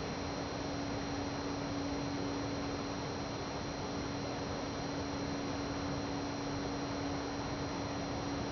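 Steady hiss with a constant low hum tone underneath, unchanging throughout; no knocks or pulses stand out.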